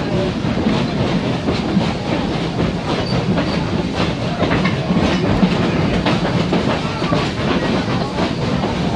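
A steam-hauled train rolling steadily, heard from the open car behind the locomotive's tender: a continuous rumble of the cars on the track with wheels clicking and knocking over the rails.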